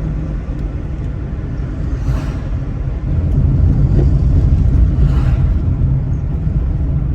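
Car driving along a road: a steady low rumble of engine and tyres that grows louder about three seconds in, with two brief hissing swells along the way.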